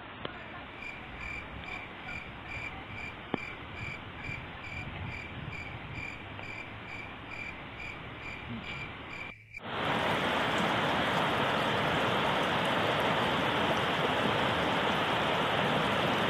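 A short, high chirp repeats evenly about twice a second over a faint hiss. After a sudden cut about halfway through, a river rushes over rocky rapids, loud and steady.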